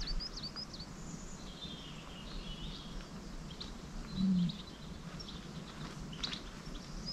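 Songbirds chirping outdoors, with a quick run of short repeated calls near the start and scattered chirps later, over faint steady background noise. A brief low sound about four seconds in is the loudest moment.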